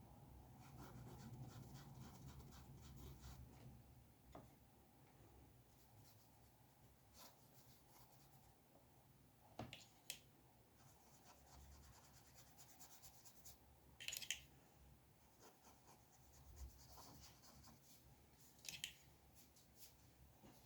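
Faint scratching of a drawing tool on paper: scattered light strokes, with a few sharper, louder scratches or taps about ten, fourteen and nineteen seconds in.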